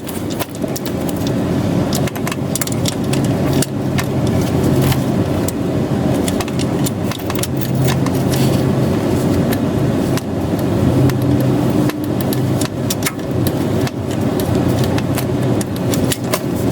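Metal hand tools clicking and clinking against car parts, with a steady low mechanical drone underneath that swells and fades every second or two.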